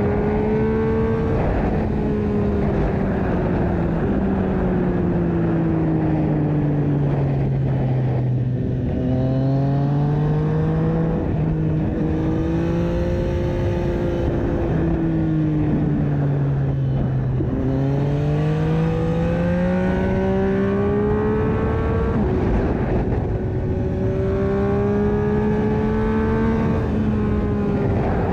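Yamaha MT-09/FZ-09 three-cylinder engine through an Akrapovic exhaust, running under way. Its pitch rises and falls slowly as the throttle is opened and eased, with a few sharp dips followed by fresh climbs.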